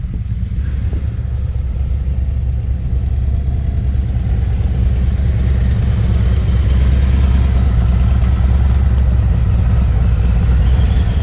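Harley-Davidson motorcycle V-twin engine running with a steady, deep low rumble, getting slightly louder about halfway.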